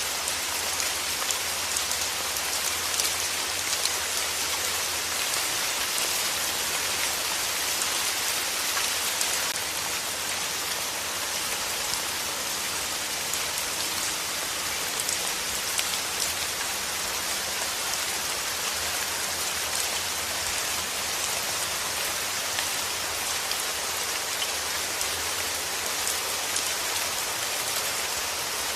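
Steady rain falling, an even hiss of countless small drops that holds unchanged throughout.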